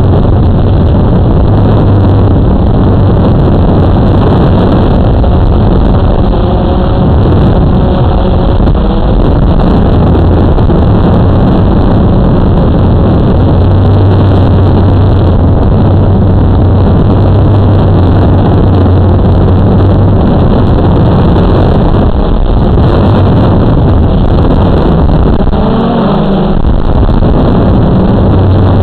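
Blade 350 QX2 quadcopter's electric motors and propellers running in flight: a steady low hum under loud wind noise on the microphone, with brief shifts in pitch a few seconds in and near the end.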